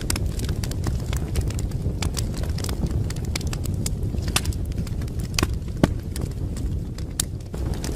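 Wood fire crackling in a fireplace: scattered sharp pops and snaps over a steady low rumble of the burning logs.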